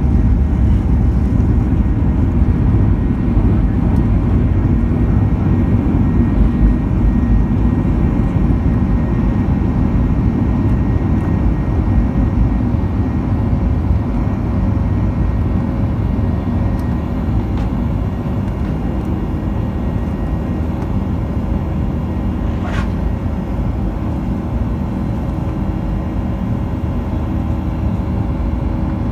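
Cabin noise of a Boeing 737-900ER climbing out after takeoff: the steady deep rumble of its CFM56 engines and rushing air, heard from a first-class seat and slowly easing. A short, sharp high click sounds about two-thirds of the way through.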